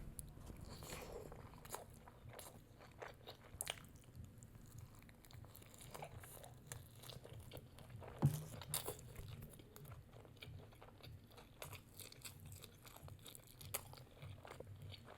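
Close-miked chewing of a mouthful of crispy fried Nashville hot chicken: faint, irregular crunching and small wet mouth clicks.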